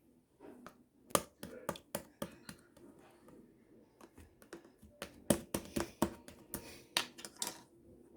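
A series of irregular sharp clicks and taps, hard objects being handled, coming thicker and louder in the second half.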